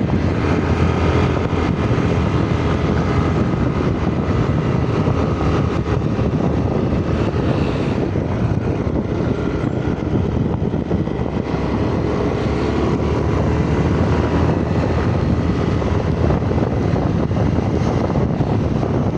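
Motorcycle being ridden at a steady pace: an even engine drone mixed with rushing noise, with no marked revving or stops.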